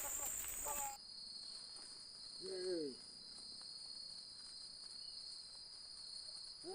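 Insects droning in a steady high-pitched chorus; about a second in, the drone shifts suddenly to a lower steady pitch. A single short voice-like call sounds briefly in the middle.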